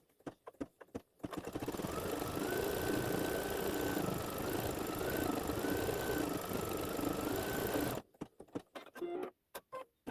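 Embroidery machine stitching: a run of clicks, then about a second in the machine starts and stitches steadily for about seven seconds, its motor whine stepping up and down in pitch, before stopping abruptly and giving way to more clicks.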